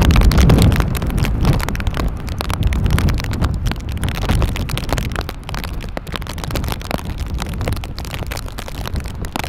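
Strong wind buffeting the microphone: a heavy low rumble, loudest in the first second, with a constant crackle over it.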